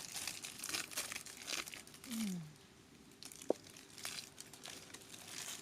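Plastic candy wrappers crinkling and tearing as wrapped chocolates are unwrapped by hand, in scattered crackles, with one sharp click about three and a half seconds in.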